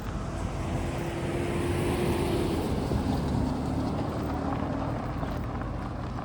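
A motor vehicle driving past on the street. Its rush of tyre and engine noise swells to a peak a couple of seconds in and then fades, and the engine note drops in pitch as it goes by.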